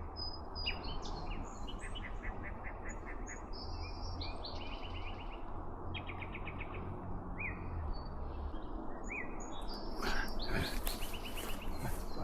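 Several songbirds singing in repeated trills, rattles and short rising calls over a steady low rumble, with a few sharp clicks near the end.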